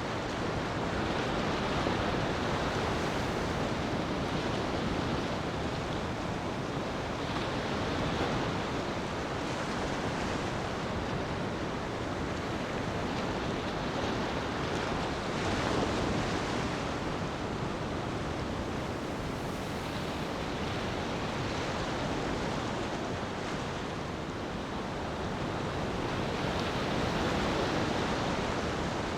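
Sea waves washing onto a beach, a steady rush that swells and eases every few seconds.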